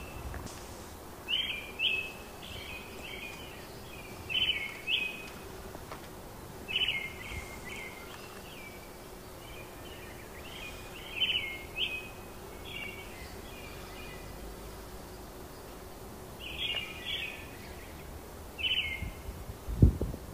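A songbird calling outdoors, short chirps in twos and threes repeated every couple of seconds, over a faint steady hum. A single low thump near the end.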